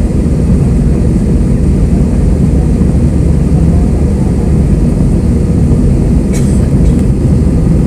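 Airbus A320 jet engines and airflow heard from inside the passenger cabin: a loud, steady, low rumble, with a brief click about six seconds in.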